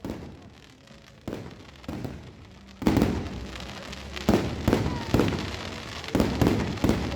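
Fireworks going off with sharp bangs. There are a few scattered reports at first, then from about three seconds in a louder, quicker string of bangs, roughly two a second.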